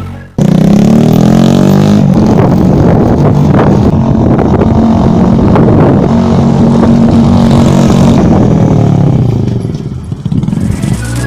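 Hanway RAW50 50cc motorcycle running through a custom airbox and new aftermarket exhaust, very loud and close. It cuts in suddenly about half a second in, with rises in revs, and its level drops about nine to ten seconds in.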